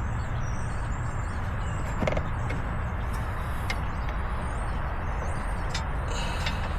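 Steady rumble and hiss of highway traffic passing in the background, with a few light clicks scattered through it.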